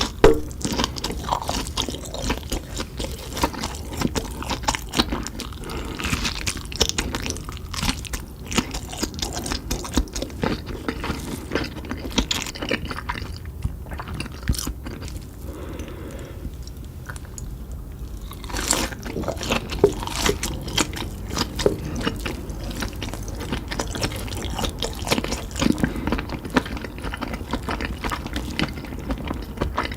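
A person chewing and crunching Cheetos-crusted meat fingers, with many irregular crisp crackles of the coating throughout and one sharp, loud bite just after the start.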